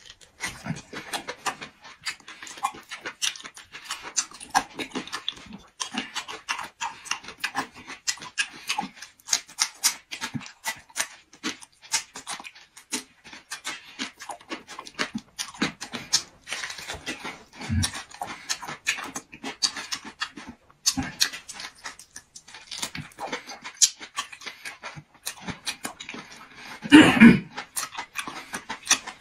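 Close-miked chewing of boiled beef large intestine: a steady run of wet smacks, lip clicks and squelches. About 27 s in there is one louder, longer mouth sound with a hummed, pitched part.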